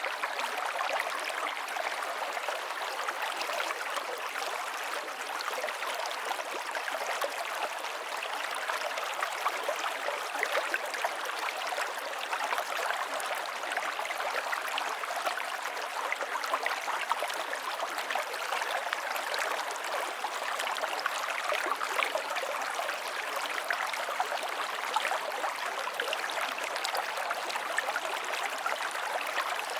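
River water flowing over rocks, a steady rushing and babbling with fine splashing detail.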